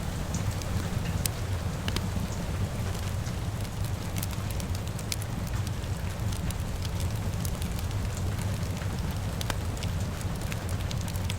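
Wood fire crackling with frequent sharp pops and snaps over a steady hiss of rain, with a constant low rumble underneath.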